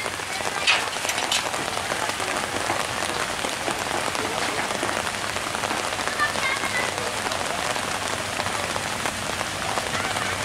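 Steady rain falling, an even hiss of drops, with two sharp taps about a second in.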